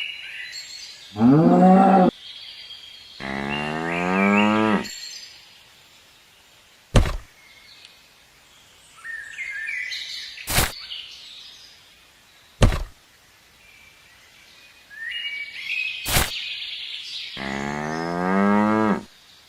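Three drawn-out animal calls that slide in pitch, with four sharp knocks and high chirps in between.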